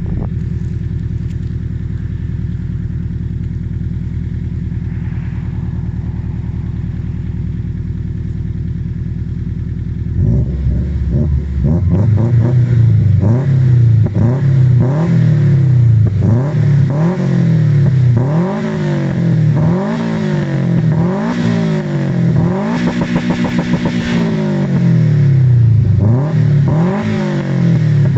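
Subaru Impreza GC8's flat-four boxer engine through an XForce aftermarket exhaust, idling steadily, then revved in a series of quick blips from about ten seconds in, one rev held a little longer partway through.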